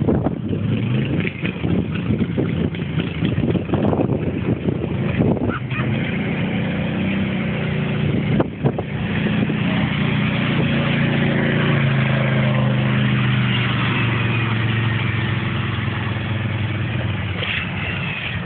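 A Can-Am Renegade quad's engine runs through flood water, a steady engine note under a constant wash of noise. The engine note is strongest through the middle of the stretch.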